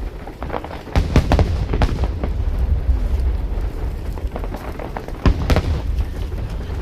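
Aerial fireworks shells bursting in a rapid string of booms over a continuous low rumble. A cluster of bangs comes about a second in, and another about five seconds in.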